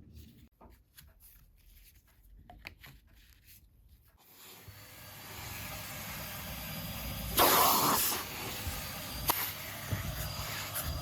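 A few light clicks, then a Henry Xtra vacuum cleaner with its crevice tool starts up, its motor noise building over a second or two into a steady rushing run. About three and a half seconds later comes a loud rush lasting under a second, followed by a sharp click.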